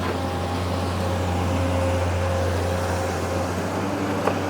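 Excavator's diesel engine running steadily, a continuous low drone, with a short click near the end.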